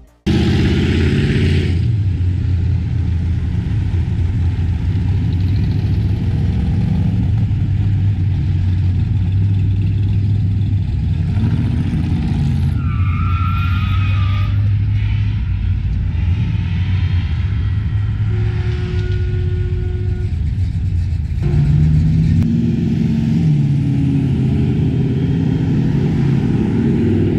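Classic cars cruising slowly past, their engines running with a steady low rumble. The sound changes abruptly about twenty seconds in.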